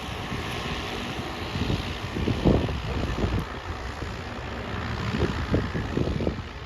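Single-engine Cessna propeller plane taking off, its engine at full power.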